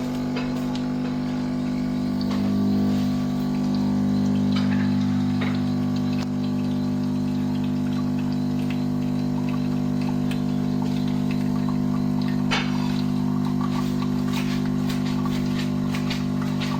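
Semi-automatic espresso machine's vibration pump humming steadily as it pushes water through, with faint ticks and trickling above the hum.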